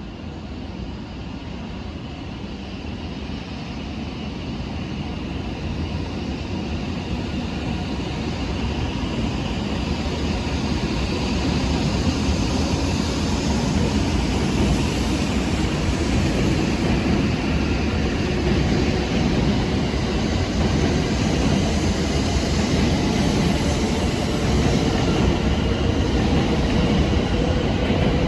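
Joetsu Shinkansen train approaching. Its rumble and hiss grow steadily louder for about twelve seconds, then hold at full loudness.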